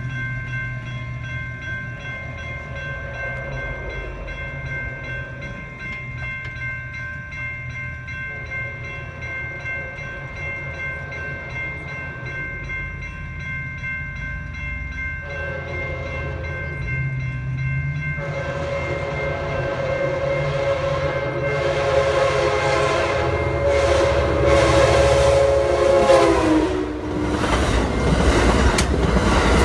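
Grade-crossing warning bells ringing steadily while an approaching Amtrak passenger train sounds its horn, a short blast about halfway through and then a long one whose pitch drops as the locomotive reaches the crossing. The train then rushes past close by with a loud rumble and the clatter of wheels on the rails.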